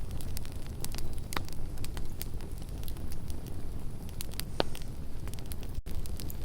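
Campfire burning with a steady low rumble and irregular crackles and sharp pops from the wood, several louder pops among many small ones.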